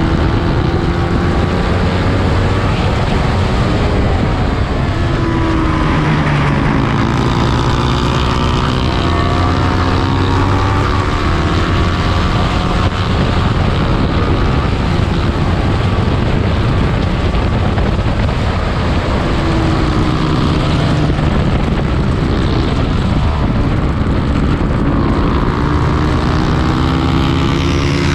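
Lightweight 300-class racing motorcycle engine running hard at high revs, its pitch climbing and dropping again and again through gear changes and corners.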